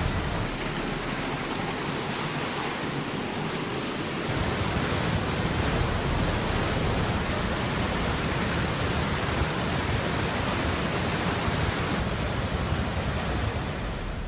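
Rushing floodwater: a loud, steady noise of fast-moving water that changes character abruptly a few times.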